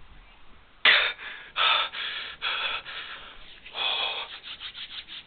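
A person breathing in loud, hissy gasps, about five breaths a second or so apart.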